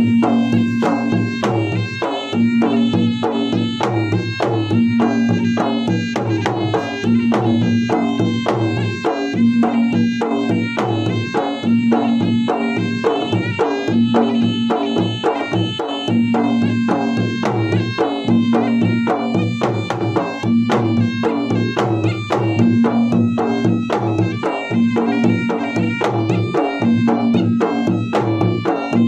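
Traditional Makassar gendang drums played in fast, dense strokes at wedding (gendang pengantin) music, with a pitched melody line held over the drumming and a low note recurring in a cycle of about two seconds.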